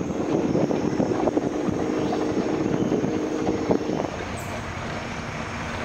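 An engine running steadily with a hum of level tones for about four seconds, then dropping to a quieter, even hum.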